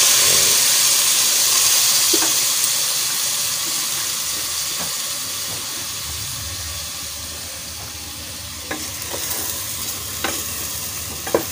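Chicken feet sizzling in hot oil in a pressure-cooker pot as soy sauce is poured in. The sizzle is loudest at first and slowly dies down, with a few light knocks against the pot in the second half.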